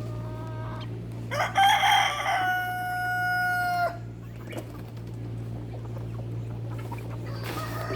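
A rooster crowing once, a long call of about two and a half seconds ending on a held note, with another crow starting near the end. A steady low hum runs underneath.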